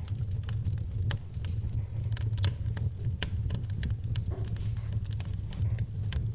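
Wood fire in an open fireplace crackling, with irregular sharp pops and snaps over a low steady rumble of the flames. Rain patters evenly in the background.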